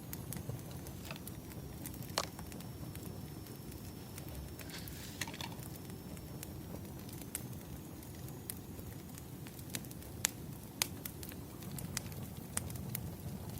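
Firewood burning in a fire: irregular sharp crackles and pops over a low steady rumble, with a faint high whistle.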